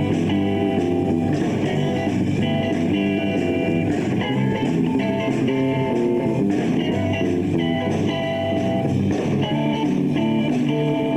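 Live bar band playing an instrumental blues-rock passage, electric guitars over bass and drums.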